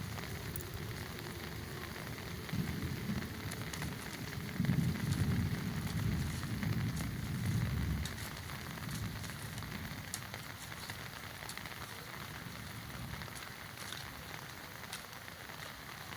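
Steady rain falling and pattering on hard surfaces, with scattered drops ticking. A low rumble comes and goes in the first half and fades out about eight seconds in.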